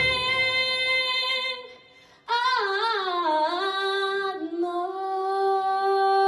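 Female voice singing with almost no accompaniment: a held note, a short break, then a wavering run that slides downward and settles into a long held note.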